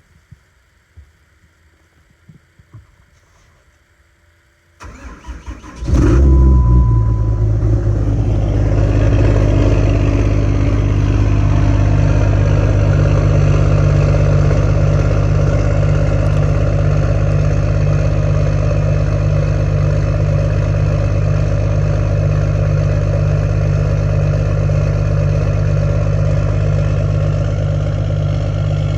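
6.7-litre Cummins inline-six turbo diesel cold-starting at 13°F with no grid heater: quiet for about five seconds, cranks for about a second, then catches and settles into a loud, steady idle.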